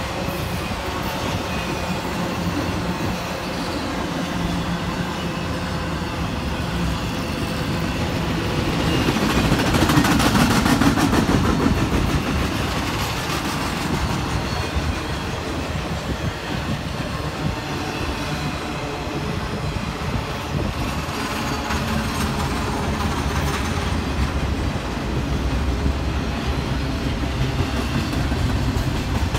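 Intermodal freight cars rolling past: a steady rumble of steel wheels on the rails with clickety-clack over the rail joints, swelling louder for a few seconds around ten seconds in.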